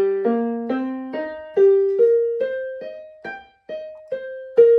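Casio Casiotone CT-S300 keyboard's piano voice playing arpeggios: single notes struck one after another, about two or three a second, each fading after it is struck.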